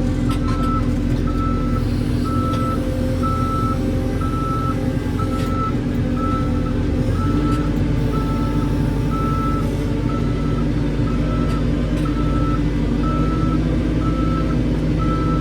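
Heavy equipment reversing alarm beeping steadily at one pitch, about two beeps a second, over a diesel engine running at a steady speed.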